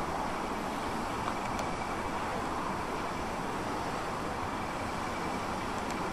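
Steady rumble of a slow-moving multiple-unit train rolling toward the listener along the track.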